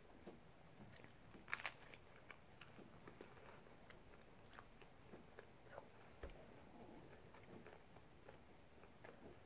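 Faint chewing and mouth sounds from a person eating a soft flour-tortilla taco, with scattered small clicks throughout and two sharper clicks close together about one and a half seconds in.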